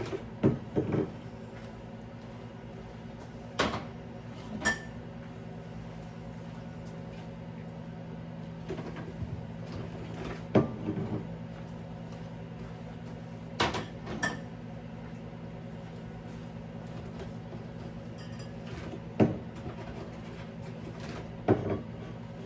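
Scattered knocks and clatter of things being handled and set down while a refrigerator is cleaned out, about eight over a steady low hum.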